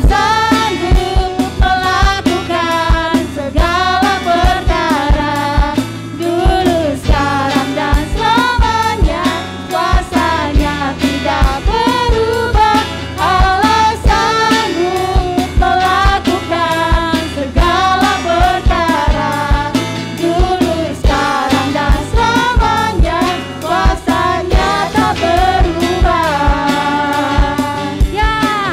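Upbeat Christian praise song: voices singing over a band with a steady drum beat.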